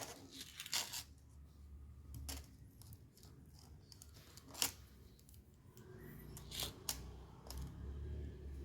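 Scattered small sharp clicks and taps from handling laptop parts and tools, the loudest about four and a half seconds in.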